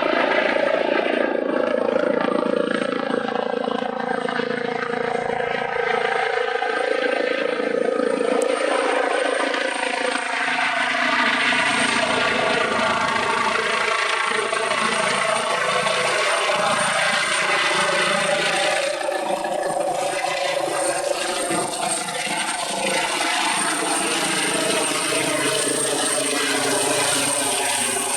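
Eurocopter EC135's twin turbine engines and rotor running steadily, with a thin, steady high-pitched whine over the engine and rotor sound.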